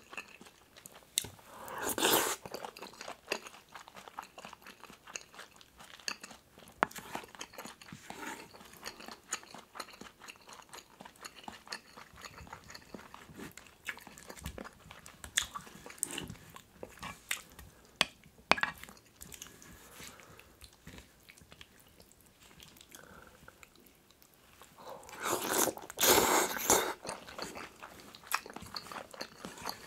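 Close-miked eating of kimchi stew with rice, egg and seasoned laver: chewing and biting, with a wooden spoon clicking and scraping in a metal pot. Eating is loudest about two seconds in and again from about twenty-five to twenty-seven seconds.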